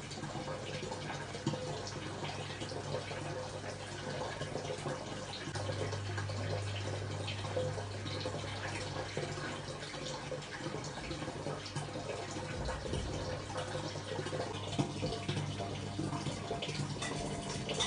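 Water running from a tap and splashing into a sink, with small clicks and drips, over a steady low hum.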